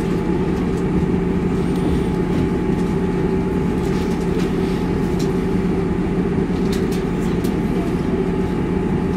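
Inside a passenger train rolling slowly into a station: a steady engine drone and wheel rumble, with a few faint clicks from the wheels partway through.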